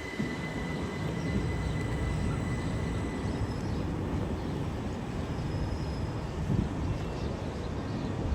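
Electric train rumbling along the line, with a thin high whine that fades away in the first few seconds.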